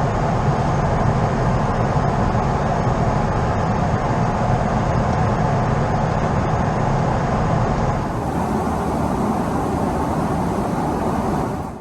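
Steady, loud rushing noise of a Boeing 777-300ER's jet engines and airflow, heard from inside the cabin. The sound shifts slightly about eight seconds in.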